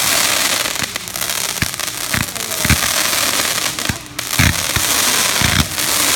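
Backyard fireworks finale: a dense, continuous crackling from bursting shells, with a deep boom about every second.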